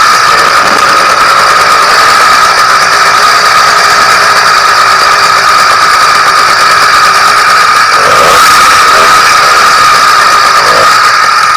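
YD100 two-stroke motorized-bicycle engine running steadily at high revs during its first run after porting, a loud, even, high-pitched drone that swells a little about eight seconds in.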